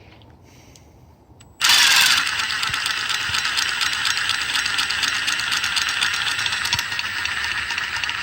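A handheld power drill starts about a second and a half in and runs steadily: a high motor whine over a rattling mechanical clatter.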